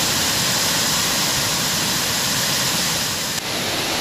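Waterfall rushing: a steady, even hiss of falling water, with a brief dip near the end.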